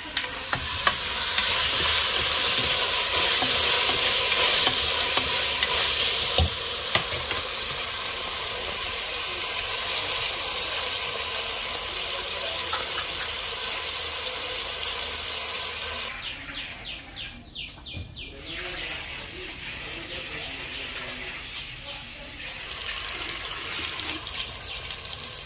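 Onions, tomatoes, potatoes and garlic sizzling in hot oil in a metal pot on a gas stove, with scattered clicks of stirring in the first several seconds. The sizzle is loudest for about sixteen seconds, dips briefly, then carries on more quietly.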